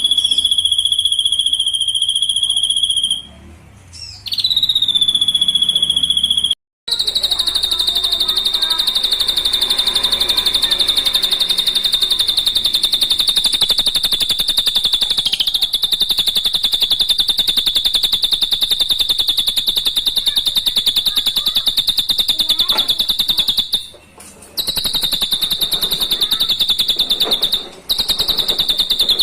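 Drongo (srigunting) giving a long, high, rapidly pulsed trill that holds one pitch. It is broken by a few short gaps: a brief dip and rise in pitch about four seconds in, a sudden dropout a few seconds later, and short breaks near the end.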